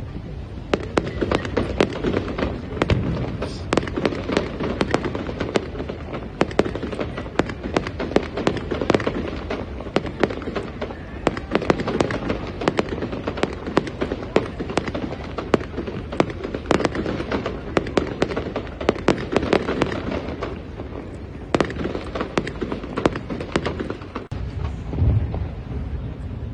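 Fireworks display, with a dense, continuous run of sharp bangs and crackles from bursting shells. There are a few deeper booms near the end.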